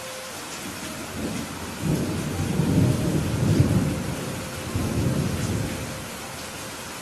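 Steady heavy rain hissing, with a low rumble of thunder that swells about two seconds in and dies away near the end.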